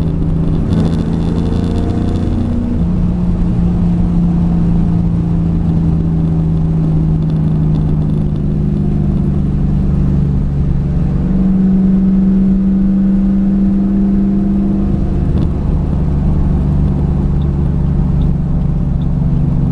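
2008 Ford Mustang GT's 4.6-litre V8 running while driving, a steady engine note that steps up in pitch about three seconds in, rises higher around eleven seconds, then drops back near fifteen seconds.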